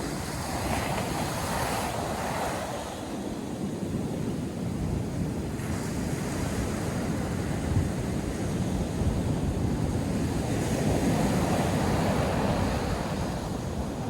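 North Sea surf breaking and washing on a sandy beach in a steady rush that swells and ebbs slowly, with wind buffeting the microphone in the low end.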